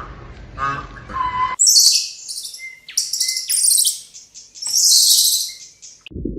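Small birds chirping in rapid, very high-pitched bursts, after an abrupt cut from a few repeated lower calls of another animal that end about a second and a half in.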